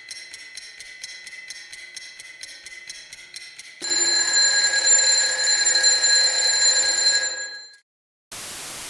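Broadcast transition sound effect: fast regular ticking, about four ticks a second, over a thin steady high tone. About four seconds in, it gives way to a louder ringing of several steady pitches that lasts about four seconds, then fades and stops.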